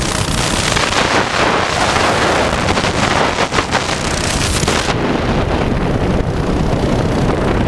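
Wind buffeting the microphone while riding a mini bike, with the bike's small engine running under it. The high hiss drops away sharply about five seconds in.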